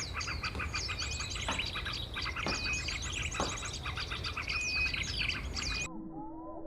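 Dense chorus of small songbirds chirping and trilling rapidly, many high, quick calls overlapping. Just before the end it cuts abruptly to a muffled recording of lower, rising calls.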